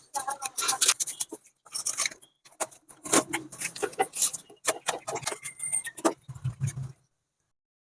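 Rapid clicking and clattering of tools and pipe fittings being handled during a leaking elbow repair, stopping abruptly about seven seconds in.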